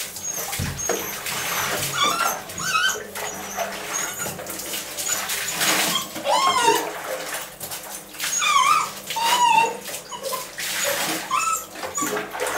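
Puppies whining and yipping again and again in short, high cries that rise and fall, over busy scuffling noise.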